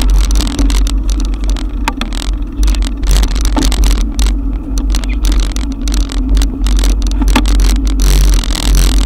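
Wind rushing on a GoPro action camera's microphone while cycling through a downpour: a heavy, steady low rumble with many short crackles of rain and road noise on top.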